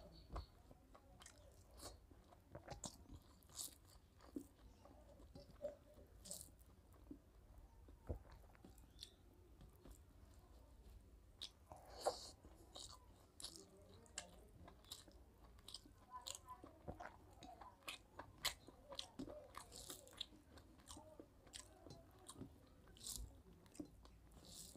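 Quiet, close-miked mouth sounds of a man eating rice and mutton curry by hand: chewing with many short wet clicks and smacks, and the soft sound of fingers working rice on a steel plate. The loudest smack comes about twelve seconds in, as a mouthful goes in.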